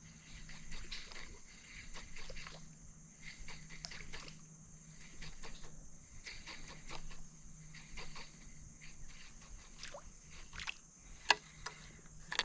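Water sloshing and lapping softly around a small boat in shallow water, with scattered small clicks and ticks and a sharper click about 11 seconds in.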